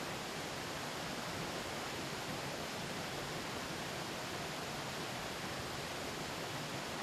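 Mountain stream babbling and rushing in a steady, unbroken flow.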